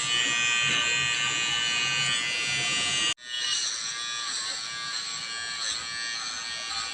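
Electric hair trimmer running with a steady buzz. About three seconds in the sound drops out for an instant and comes back quieter, its pitch wavering slightly.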